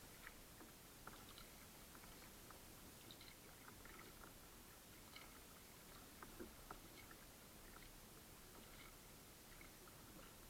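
Near silence: a faint steady hiss with scattered soft small clicks.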